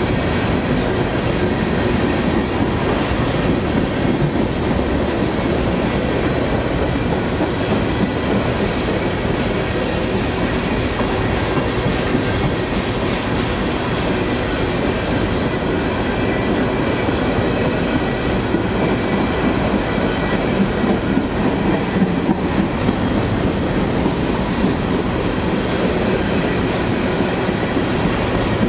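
Freight train cars rolling steadily past: a continuous rumble of wheels on rail with clattering over the joints, and faint steady high tones above it.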